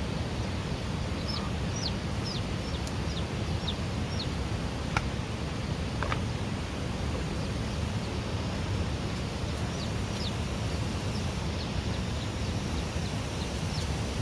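Young chicks peeping: scattered short, high, falling cheeps, bunched near the start and again in the second half, over a steady low rushing background noise.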